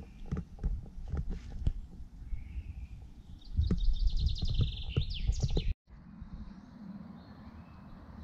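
A songbird sings a rapid trill of repeated high notes ending in a quick flourish, over a low rumble with scattered clicks and rustles. The sound drops out abruptly for a moment about two-thirds of the way in, then faint birdsong and a softer rumble continue.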